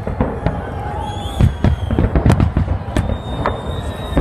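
Aerial firework shells bursting in a dense, rapid barrage of bangs and crackles, many per second. A thin high whistle sounds over them in the last second.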